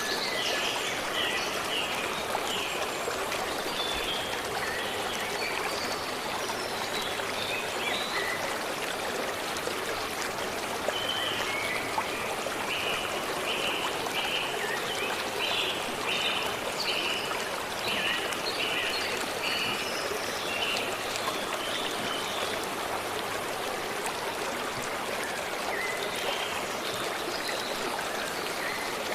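A stream running steadily over stones, with a bird calling in short repeated chirps at the start and again in a longer run of notes through the middle.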